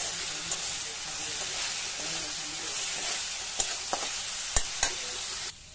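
Onion-ginger paste and ground spices sizzling in hot oil in a metal pan while being stirred, the masala frying down. A metal spatula scrapes and clinks against the pan a few times. The sizzle cuts off suddenly near the end.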